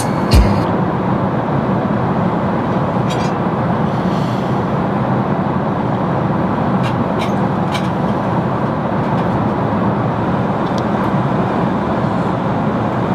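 Steady cabin noise of an airliner in flight, the even rush of engines and airflow, with a few faint clicks over it.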